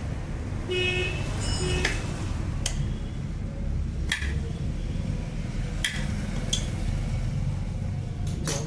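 Metal tools and pump fittings clinking and tapping, about half a dozen separate clinks with a brief metallic ring about a second in, over a steady low hum.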